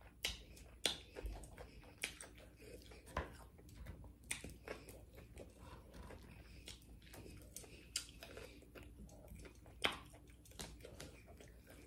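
Eating sounds of crispy fried pork chop being bitten and chewed: soft chewing with scattered, irregular crunches of the fried breading.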